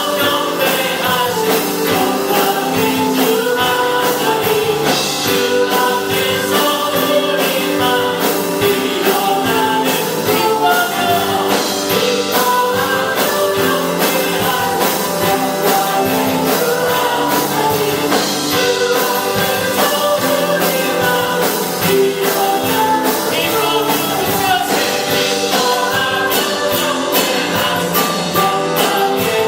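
Christian praise song sung with band accompaniment, with voices carrying the melody over steady instruments and cymbals.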